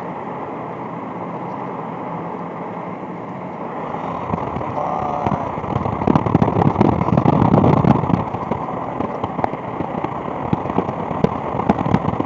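Wind buffeting the microphone in a moving car, with road noise underneath; from about four seconds in it turns into dense crackling and popping, loudest a couple of seconds later.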